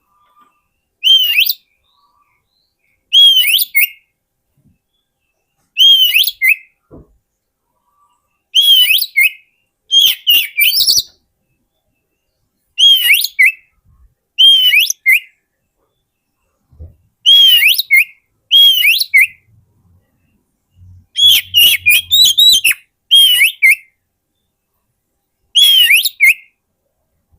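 Oriental magpie-robin (kacer) singing: about a dozen short, loud whistled phrases, each opening with a clear note that rises and falls, then quick twittering, with a second or two of silence between phrases.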